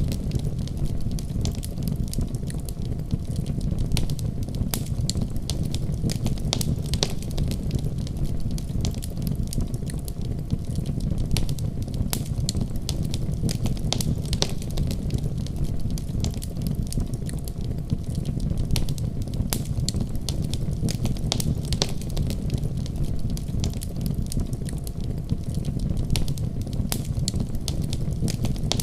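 Wood fire burning in a fireplace, with a steady low rumble of flames and frequent sharp crackles and pops.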